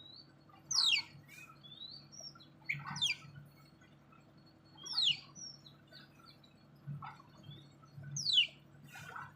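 A bird calling: four sharp, steeply falling whistled notes, about two to three seconds apart, with softer short chirps between them.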